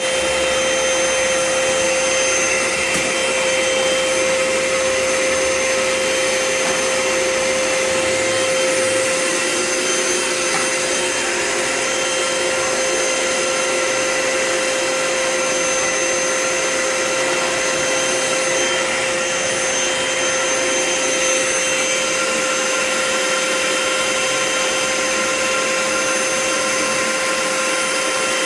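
Vacuum cleaner running continuously, a steady motor whine over a noisy roar of suction as it cleans the floor.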